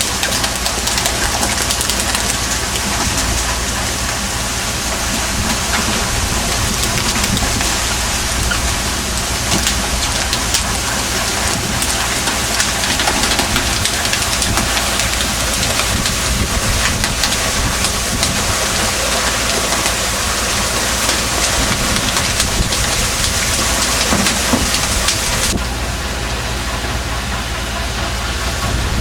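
Fishing boat under way at sea: a steady engine hum under a loud, even rushing hiss, which thins abruptly near the end.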